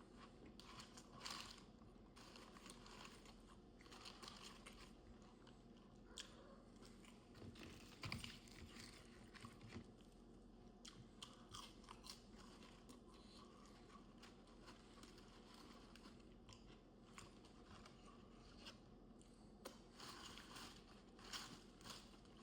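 Faint chewing and biting of fast food close to the microphone, with small irregular crunches and mouth clicks.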